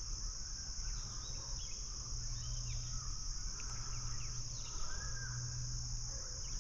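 Steady high-pitched drone of crickets and other insects in an evening chorus, with a few short bird chirps over it.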